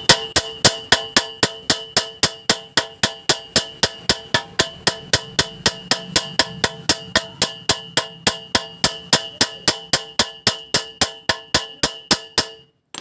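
A hammer tapping rapidly and steadily on the steel load cell of a weighing scale, about four ringing metallic strikes a second, stopping near the end. It is knocking loose rust and carbon around the corroded bolts.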